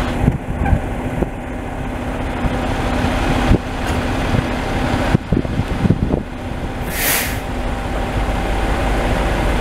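Heavy truck engine running steadily, with a few knocks and a short hiss of released air about seven seconds in.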